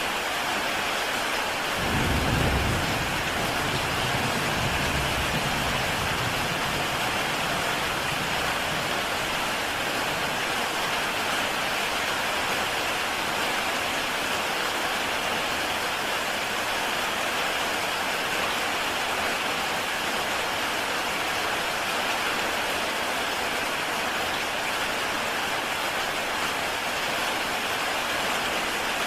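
Heavy rain falling steadily on a tile roof, an even hiss of dense drops. A low rumble rises about two seconds in and fades over the next few seconds.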